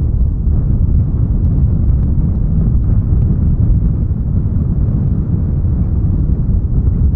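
Steady low rumble of wind buffeting the microphone outdoors, with no bird calls.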